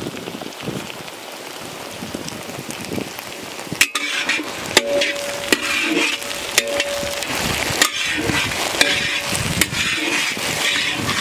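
Oil sizzling in a large wok with garlic, dried red chillies and tomato sauce. From about four seconds in, a spatula scrapes and clacks against the pan again and again as the mixture is stirred.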